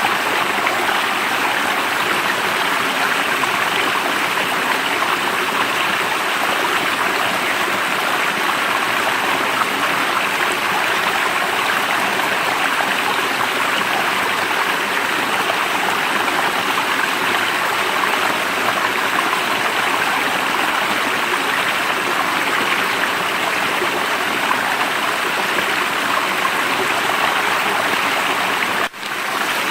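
Stream water running steadily in a continuous rush, with a brief sharp drop in level near the end.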